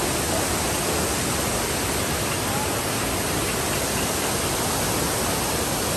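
Steady rush of a river and waterfall, an even unbroken hiss of fast-flowing water.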